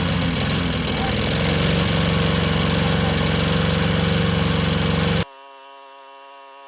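Honda GCV160 single-cylinder four-stroke lawnmower engine running steadily on a crankcase filled with ketchup instead of oil. About five seconds in the sound cuts abruptly to a quieter, thin whining tone.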